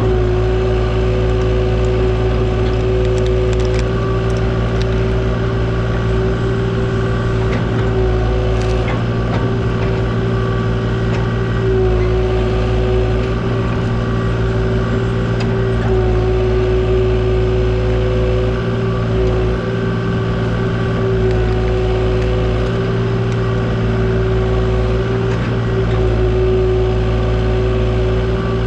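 Kubota KX040 mini excavator's diesel engine running steadily as the machine digs, with a tone that dips and wavers from time to time as the hydraulics take load.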